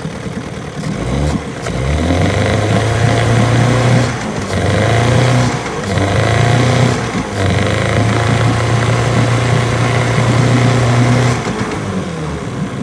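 Outboard motor on a jon boat running after sitting unused. Its steady engine note comes up about a second and a half in, holds with three brief dips, and drops back near the end.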